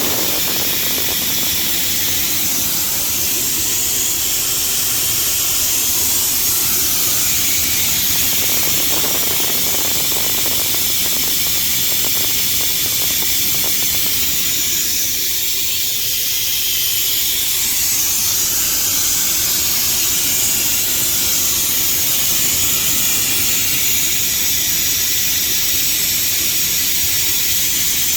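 Compressed air hissing steadily out of a truck trailer's air suspension as it is dumped to lower the trailer.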